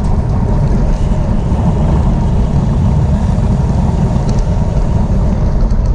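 Steady wind rumble buffeting the microphone, mixed with rolling road noise, with a few faint ticks.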